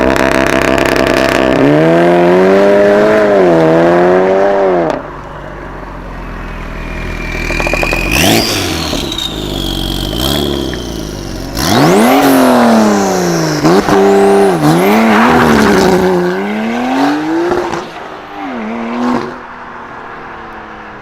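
A supercar engine revved hard, its pitch climbing and falling in repeated surges, in two loud passages with a quieter stretch between. There are a few sharp exhaust cracks in the second passage, and the sound fades near the end.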